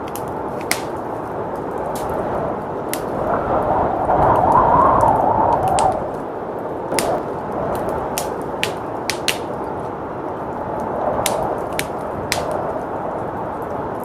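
Wood fire crackling with sharp, irregular pops over a steady rush of blizzard wind; the wind swells in a gust about four seconds in.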